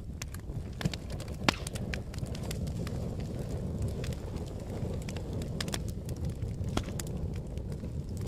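Wood fire burning with a steady low rush and irregular sharp crackles and pops, a louder pop about a second and a half in.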